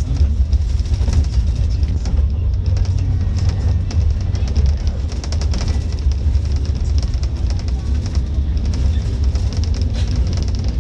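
Scania K310UD double-decker bus running, heard from inside: a steady low engine and road rumble, with music with a drum beat playing over it.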